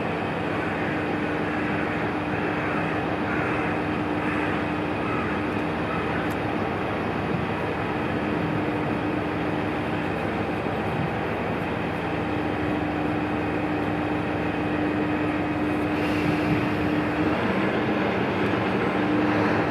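ET122 diesel railcar running with a steady engine hum, growing a little louder near the end.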